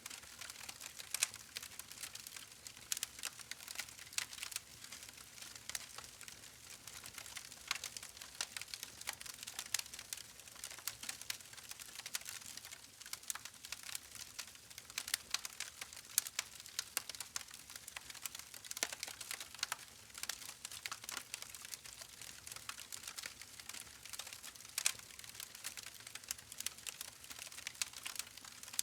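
Wood campfire burning: a steady, irregular crackle of small snaps and pops, with a few louder pops scattered through.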